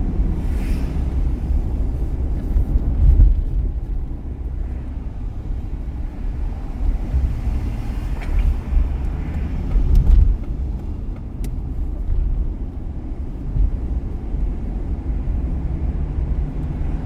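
Car driving on a city street: a steady low rumble of engine and tyre noise with a few brief swells.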